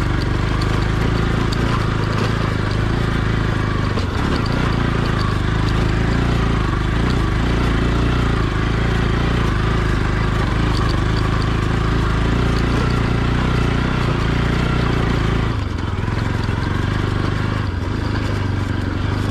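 Motorcycle engine running steadily under way, its note shifting briefly about sixteen and eighteen seconds in.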